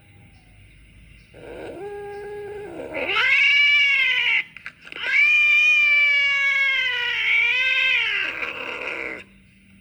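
Cat yowling (caterwauling) in long drawn-out calls: a shorter, flatter call about a second and a half in, then a loud call that rises and falls, and a long wavering yowl from about five seconds in to near the end.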